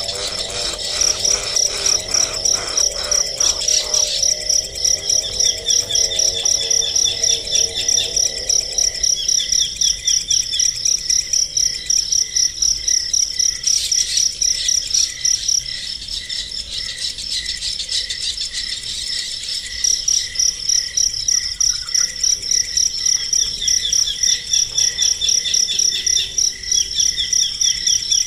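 Rhythmic high-pitched chirping, about two to three chirps a second, with a pause of a few seconds past the middle. A lower warbling call sounds under it for the first several seconds.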